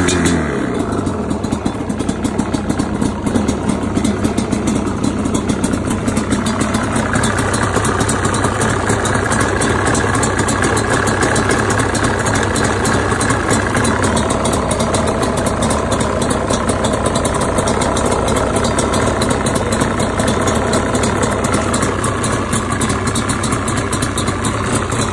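Yamaha Banshee's two-stroke parallel-twin engine settling from a brief rev back to a steady idle, with a noise at idle that the owner finds weird.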